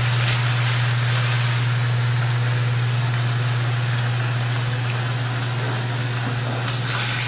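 Raw chicken breast sizzling steadily in hot vegetable oil in a non-stick frying pan, with a steady low hum underneath.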